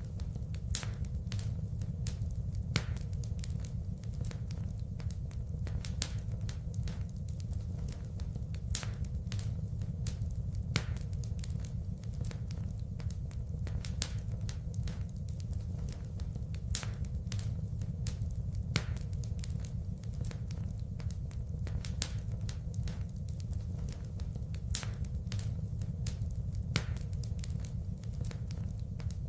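Wood fire burning in a fireplace, crackling steadily, with sharp pops coming at irregular moments over a low, even rumble of the flames.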